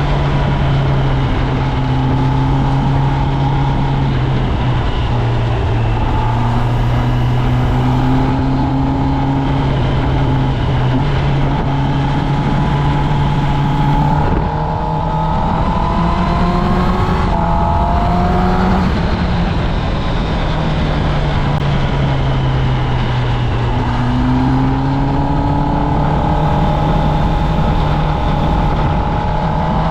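Kawasaki Ninja ZX-10R inline-four engine through its stock exhaust, running under way on a ride with a steady rush of wind noise. The engine note mostly holds a steady pitch. About halfway through it dips briefly, then climbs quickly and falls back, and it climbs again later.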